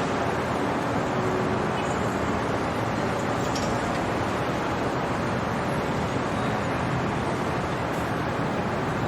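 Steady city traffic noise: a dense, even hum of distant road traffic, with a few faint brief higher sounds along the way.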